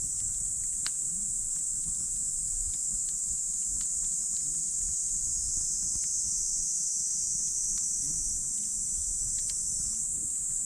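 Wood campfire crackling, with scattered small sharp pops, over a steady high-pitched hiss and a low rumble.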